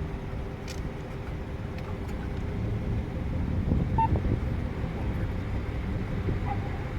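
Steady low rumble of a motor vehicle, swelling a little midway, with a short high chirp about four seconds in.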